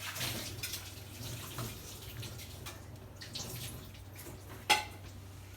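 Cut chicken pieces being mixed with spices in a bowl: an irregular wet stirring sound, with one sharp knock near the end.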